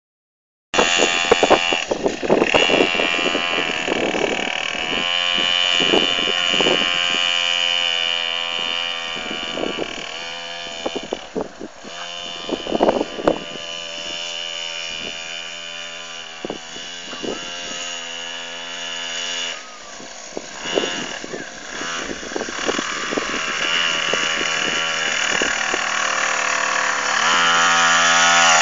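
49cc dirt bike engine running, its revs rising and falling several times.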